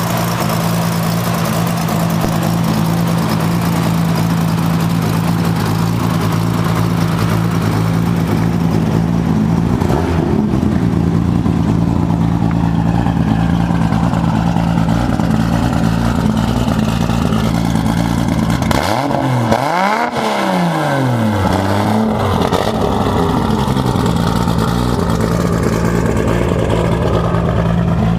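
Nissan RB26 straight-six, fitted with a single Borg Warner S372R turbo in a 240SX, idling steadily, with one quick rev up and back down about two-thirds of the way through.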